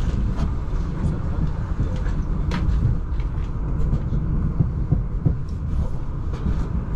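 Passenger train running on rails, heard from inside the Talgo carriage: a steady low rumble with scattered, irregular clicks from the wheels and track.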